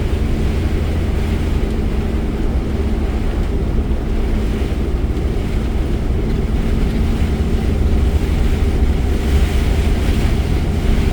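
Steady noise inside a car driving through a heavy rainstorm: a low rumble of tyres and engine under a hiss of rain and spray, swelling a little toward the end.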